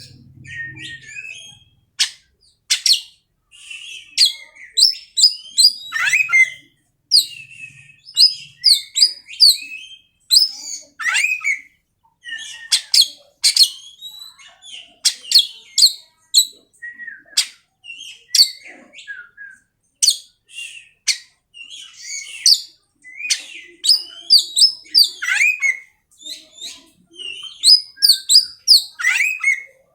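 Oriental magpie-robin (kacer) singing a run of fast, varied phrases of sharp whistles and chirps, with short pauses between them.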